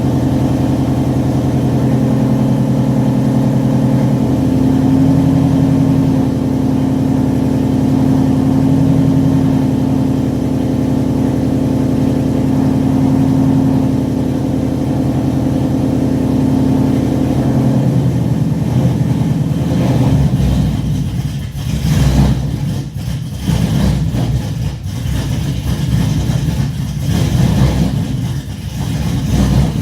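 2017 Mustang GT's 5.0 V8 idling through straight pipes with long-tube headers and no cats, mufflers or resonators: a steady, deep exhaust note. About twenty seconds in, the sound turns rough and uneven, rising and falling in level.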